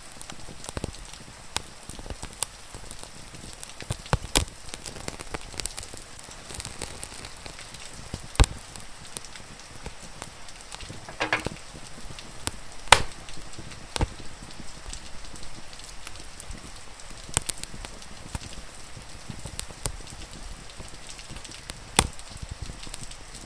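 Wood fire crackling, with frequent small clicks and several sharp loud pops, over a steady hiss of rain. About halfway through there is a brief pitched squeak.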